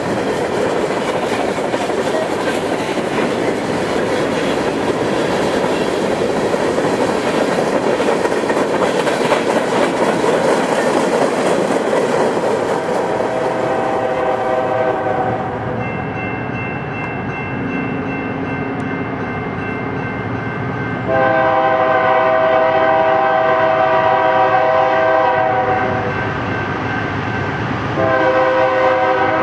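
A Norfolk Southern freight train rolling past with a steady rumble and clatter of wheels on rail. About halfway through, a locomotive air horn sounds a chord of several notes at once: a short blast, then a long blast of about five seconds, then another starting near the end, while the wheel noise eases.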